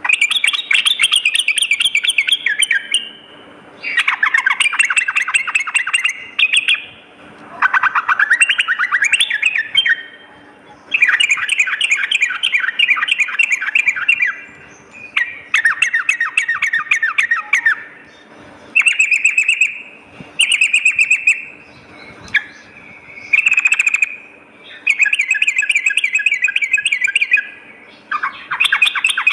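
Yellow-vented bulbul (trucukan) singing in about ten bursts of rapid, bubbling chatter, each one to three seconds long with short pauses between, one of them sweeping upward in pitch.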